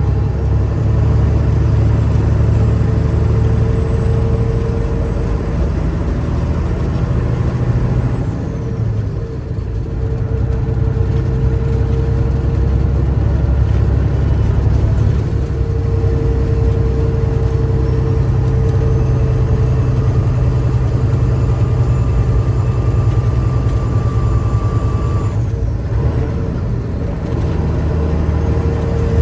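Big rig truck's diesel engine running under load on the road, steady and loud, with the note dropping briefly twice, about nine seconds in and near the end, as gears are changed.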